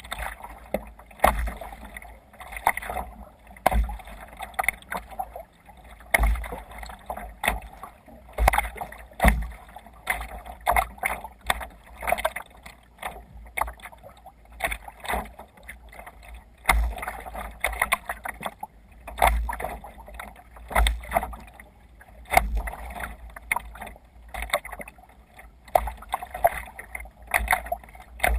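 Water splashing and slapping against a sea kayak's hull in a regular rhythm, about one surge a second, each with a low thump.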